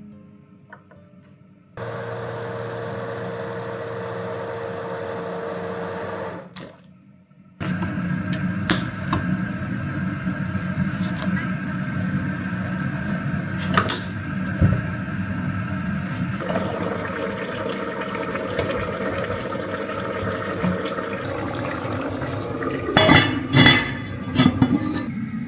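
Kitchen sounds in several short segments: a steady appliance hum for a few seconds, then a continuous water-like hiss with scattered clicks. Near the end comes a cluster of louder clinks and knocks, like dishes or utensils being handled.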